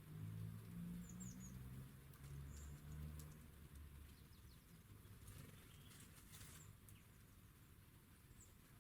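Quiet garden ambience at a bird feeder: a few faint, short, high chirps from small birds, and a brief patch of rustling and tapping about five to six seconds in. Under the first few seconds there is a low, distant hum that fades away.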